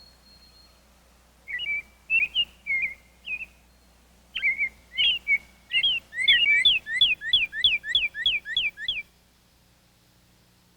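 A songbird singing clear whistled notes in two phrases, the second ending in a fast run of about a dozen down-slurred notes at about five a second, which stops about nine seconds in.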